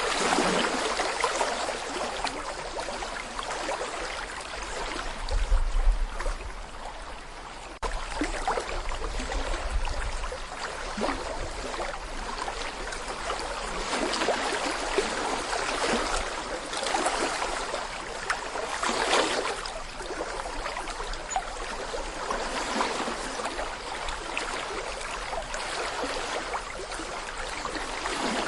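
Small brook babbling over stones: continuous gurgling and splashing of shallow running water, swelling and easing every few seconds. Two brief low rumbles come in the first third, the second beginning with a sudden jump in level.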